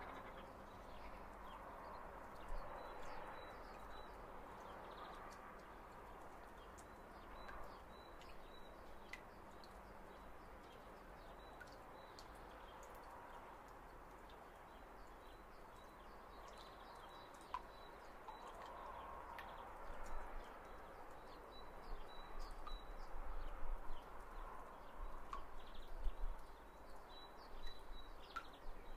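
Faint background ambience with distant birds chirping now and then in short high pips. Low bumps and rustles grow louder in the last several seconds.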